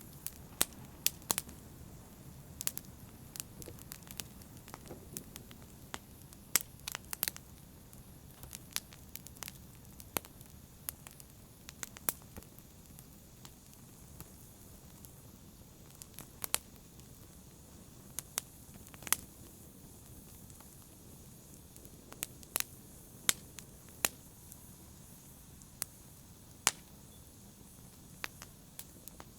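Campfire burning, with irregular crackles and sharp pops over a low steady rumble of the flames.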